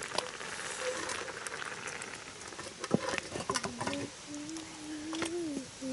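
Wood bonfire crackling, with scattered sharp pops over a steady hiss. Near the end a short, low, wavering humming tone rises slightly and then drops away.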